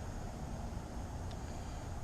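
Wind blowing across the microphone: a steady, low-heavy noise with no break.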